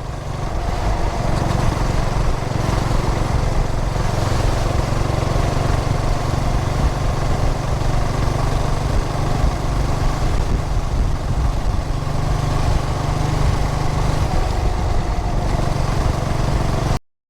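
2003 Yamaha SR400's carbureted single-cylinder engine running steadily under way, with wind rush. It cuts off abruptly shortly before the end.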